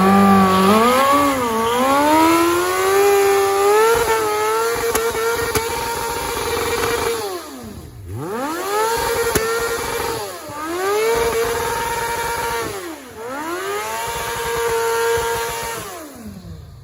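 Suzuki GSX-R inline-four sport bike engine revving hard. Its pitch climbs and holds high, then drops sharply as the throttle is rolled off and climbs again, several times.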